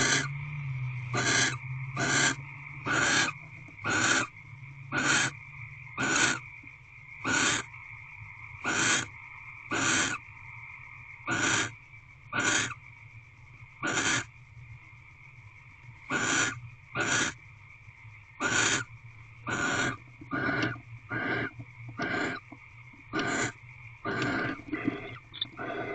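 Barn owl in a nest box giving short, harsh hissing calls over and over, about one a second with brief pauses.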